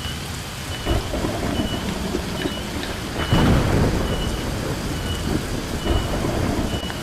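Heavy rain falling steadily, with a low rumble of thunder swelling about three seconds in. A short high note repeats a little more than once a second through the rain.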